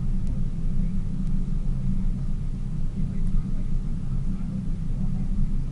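A tour boat's engine running steadily under way, a constant low rumble.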